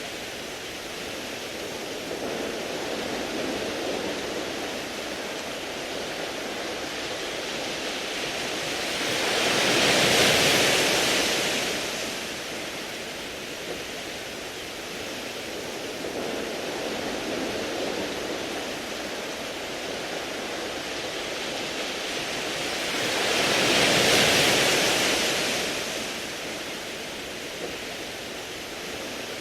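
Waves washing onto a round-pebble beach, a steady hiss of surf. Two bigger waves swell up and fade away, one about a third of the way in and one near the end, each a rushing hiss lasting a few seconds.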